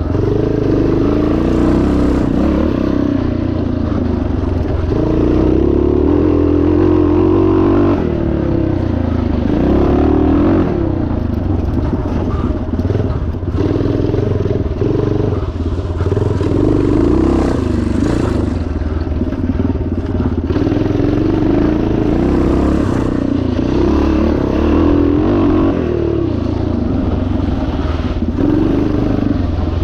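1977 Yamaha TT500's single-cylinder four-stroke engine being ridden hard off-road, revving up and falling back again and again, every few seconds.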